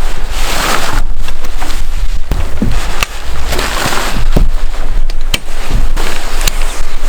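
Wind buffeting the microphone: a heavy low rumble with gusts of rushing noise that swell and fade, and scattered sharp clicks.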